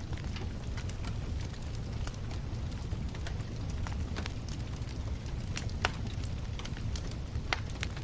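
Wood bonfire crackling: irregular sharp pops and snaps over a low, steady rumble, with two louder pops near the end.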